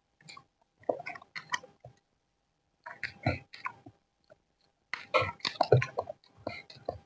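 Close-miked chewing of fried rice with wet, smacking mouth sounds in irregular bursts, broken by two short pauses of about a second.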